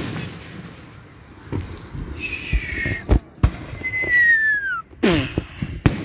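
Aerial fireworks going off: a string of sharp bangs, about six in all, with the loudest at the start and two close together near the end. Two falling whistles cut in between them, about two seconds and four seconds in.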